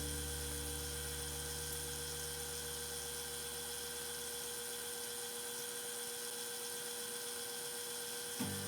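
A machine's steady hum, its deep part dying away over the first four or five seconds while a thin high whine carries on.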